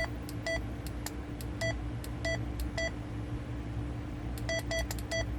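President Lincoln II+ ten-meter radio giving short electronic key beeps as its controls are worked to change modes. There are about nine of them, irregularly spaced, each with a click, and a quick run of them near the end, over a steady low hum.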